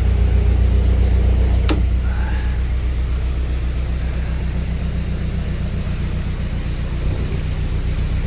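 Narrowboat's diesel engine running steadily, with a single sharp knock about two seconds in and a slight change in the engine note about seven seconds in as the boat is reversed to hold the lock gate shut.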